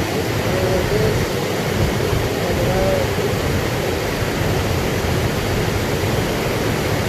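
Steady, loud rushing noise of wind on the phone's microphone, with faint wavering sounds in the background during the first few seconds.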